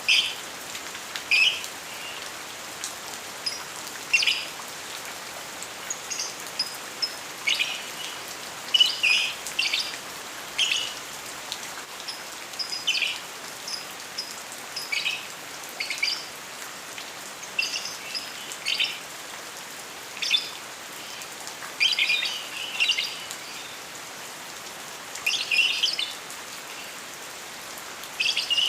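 Lovebird chirping in short, shrill bursts every second or two over a steady hiss of rain.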